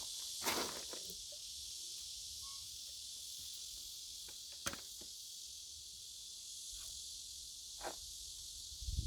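Faint handling sounds from work on toilet parts: a short rustle about half a second in, then a few isolated small clicks, over a steady hiss.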